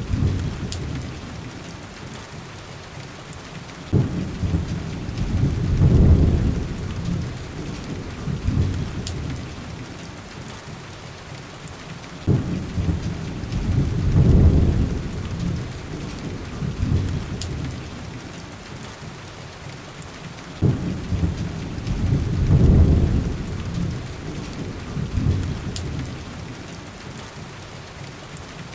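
Heavy rain hissing steadily, with thunder rumbling three times at even spacing of about eight seconds, each roll starting abruptly, swelling for a couple of seconds and fading away.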